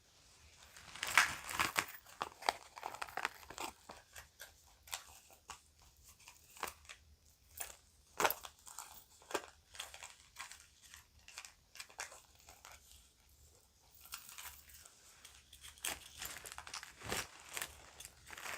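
Plastic bag crinkling as it is handled, with irregular small sharp clicks. The busiest bursts come about a second in and again from about fourteen seconds on.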